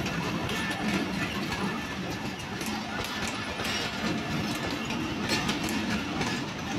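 Passenger train coaches rolling past close by, their wheels clattering steadily over the track.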